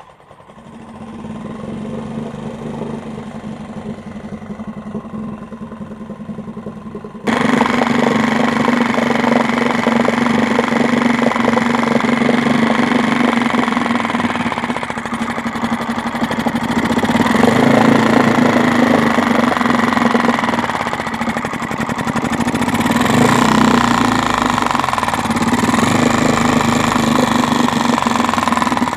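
Tohatsu 2-horsepower outboard motor running steadily after an overhaul that cured its refusal to start. It jumps abruptly louder about seven seconds in, and its speed rises and falls slightly a couple of times later on.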